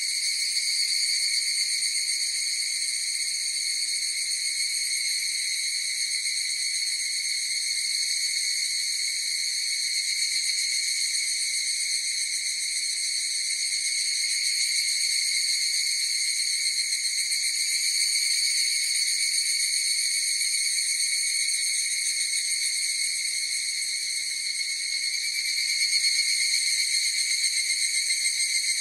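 Chorus of higurashi (evening cicadas, Tanna japonensis) calling: a continuous high-pitched ringing trill, swelling slightly in loudness now and then.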